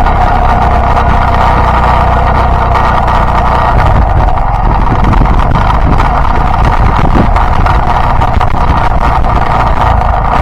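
Yamaha Byson motorcycle engine running steadily under way, with continuous riding noise.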